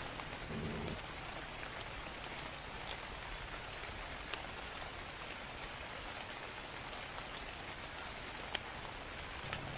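Steady rain falling, an even hiss with a few sharp drop clicks, and a brief low tone about half a second in.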